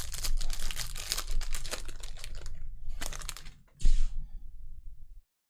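Rapid clicking and rustling of 2020-21 Panini Prizm basketball cards being flipped through by hand, with one sharp thump a little under four seconds in. The sound cuts off suddenly near the end.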